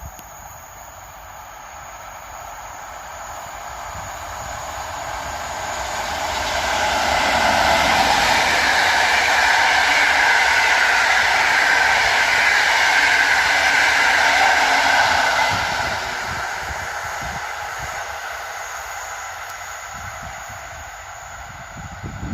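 A train passing through the station: its noise grows over several seconds, stays loud for about seven seconds, then fades away as it goes past.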